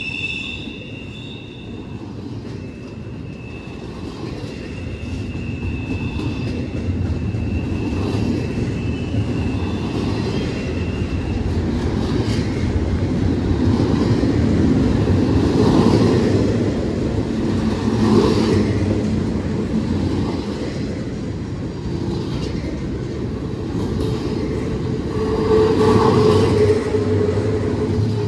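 Cars of a CSX intermodal freight train rolling past: steady wheel-on-rail noise, with a thin wheel squeal that fades out in the first several seconds. Regular clacks follow about every two seconds as wheels cross rail joints.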